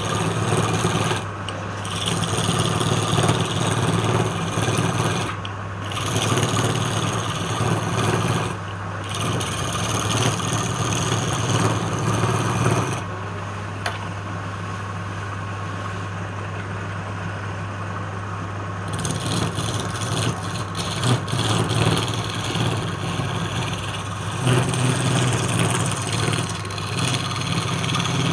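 Wood lathe motor running steadily, with a tool scraping against the spinning wood in long spells; the scraping stops for several seconds in the middle, leaving only the motor hum.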